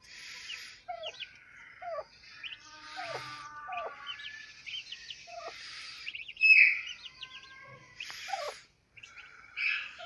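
Many caged pet birds chirping and calling over one another in short rising and falling notes and harsher noisy calls, with one louder call about six and a half seconds in.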